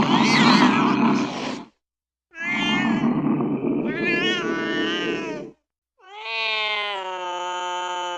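Angry domestic cat yowling in three drawn-out calls separated by short silences. The first is rough and growly, the second wavers in pitch, and the third, starting about two-thirds of the way in, is a long steady-pitched yowl.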